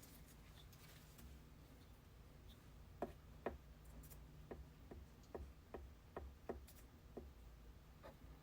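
Near silence: a low room hum, with a loose run of about ten faint, light clicks between about three and seven seconds in.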